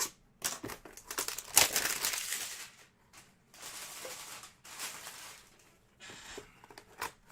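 Crinkling of plastic trading-card pack wrappers and cards being handled, a run of short rustles and clicks with the loudest about one and a half seconds in.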